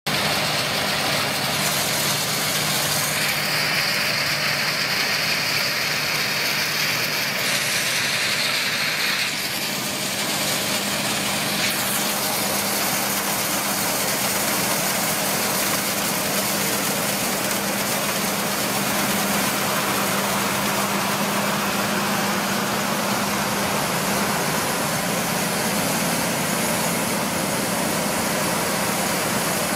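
Heavy farm machinery engine running steadily, with a higher mechanical whine over it for several seconds and a change in the sound about nine seconds in.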